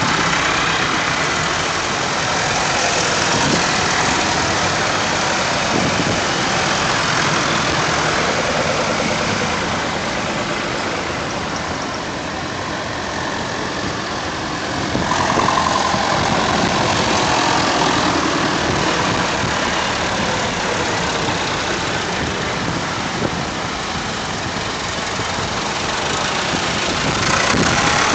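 Vintage tractor engines running, with the sound growing louder about halfway through.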